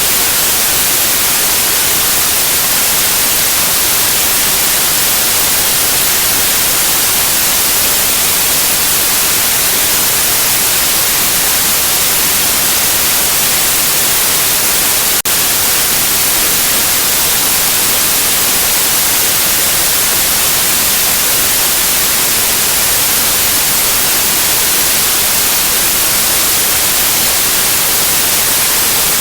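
Steady white noise: an even, loud hiss, strongest in the high frequencies, with one momentary dip about halfway through.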